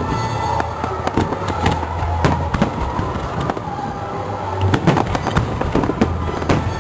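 Aerial fireworks shells bursting in quick succession with crackling stars, with a cluster of louder bangs about five seconds in.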